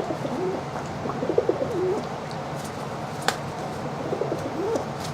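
Pet rock dove (pigeon) cooing in low, warbling phrases, once about a second in and again near the end, with a single sharp click between them.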